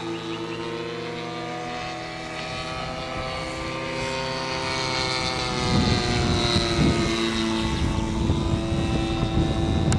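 Radio-controlled model P-47 Razorback airplane's engine and propeller running in flight, the pitch rising steadily about halfway through. A low rumbling noise joins in from about six seconds in and the sound grows louder.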